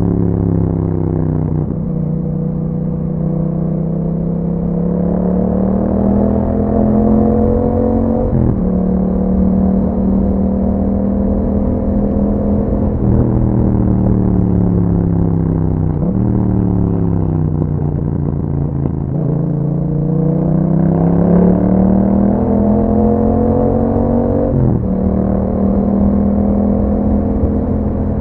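Yamaha MT-07's 689 cc parallel-twin engine running through an Akrapovic exhaust with a dB killer, pulling under throttle. Its pitch rises and falls with road speed and drops abruptly three times, at upshifts.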